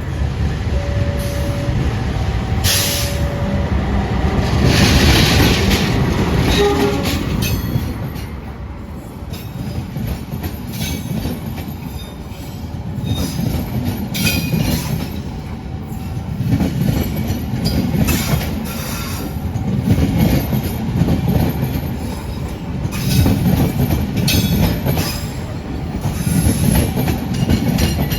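A train passing close by, its wheels clattering over the rail joints in a rhythm that swells and fades every couple of seconds as the carriages go past.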